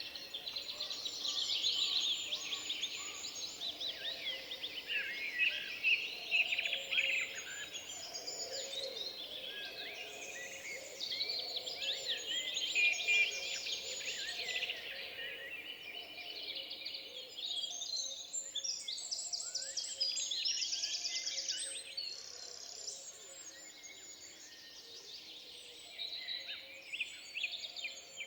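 Many small songbirds singing and chirping at once, a dense chorus of overlapping high calls and trills, with a fast rattling trill about three quarters of the way through.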